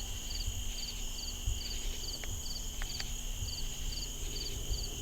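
Night insect chorus: a cricket chirps in short high pulses about twice a second over a steady high drone of other insects.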